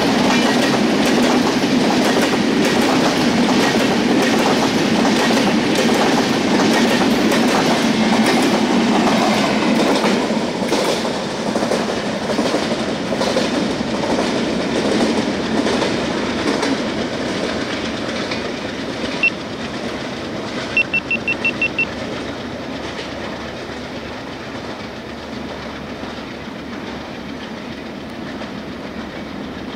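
Passenger train coaches rolling past, their wheels clicking over rail joints in a steady rhythm, the sound dying away as the last coach moves off. About two-thirds through, a single high beep, then a quick run of about six high beeps.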